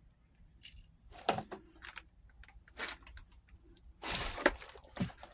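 Scattered light clicks and knocks, then about four seconds in a denser burst of rustling and scraping, as of objects and debris being handled and moved.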